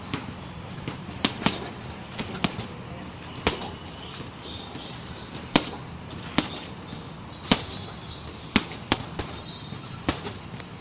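Strikes landing on a heavy punching bag: about a dozen sharp, irregular thuds, several coming in quick pairs.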